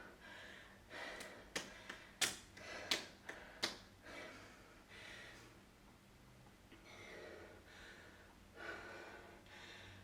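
Heavy breathing between workout exercises, with several sharp clicks in the first few seconds.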